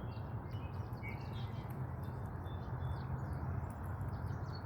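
Small birds chirping and twittering, many short quick calls, over a steady low background rumble.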